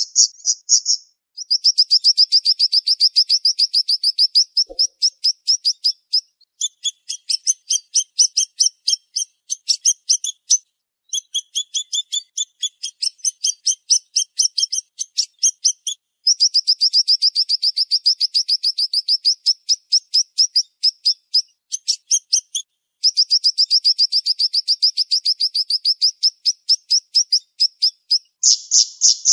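A siri-siri songbird singing long runs of very rapid, high, tightly spaced notes, in several bursts broken by short pauses. This is the sharp, fast song ('tembakan') used as a master recording to teach cage birds.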